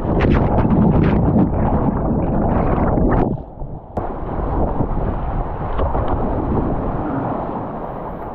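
Whitewater rushing and splashing hard against an action camera's microphone during a kayak run, with a series of splashes for about three seconds. The sound then drops suddenly, a sharp click follows, and a steady rush of river water fades out near the end.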